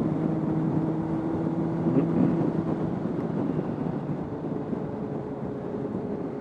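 Honda CBR600RR motorcycle on the move, heard through a microphone inside the rider's helmet lining: a steady engine hum over a haze of wind and road noise. The engine note drops away about three seconds in and a fainter, higher hum takes over, with the overall level easing slightly.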